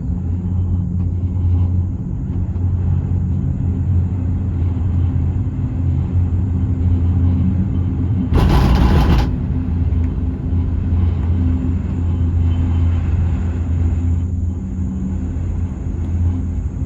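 A vehicle's engine running with a steady low rumble. A short, loud hiss cuts in about eight and a half seconds in and lasts under a second.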